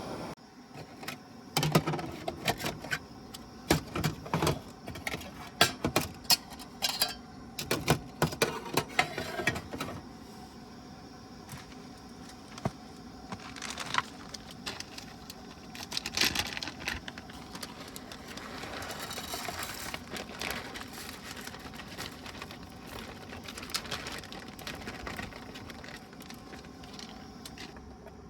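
Small hard objects being handled: a run of quick clicks and clatter for about the first ten seconds, then a quieter stretch with only occasional single clicks.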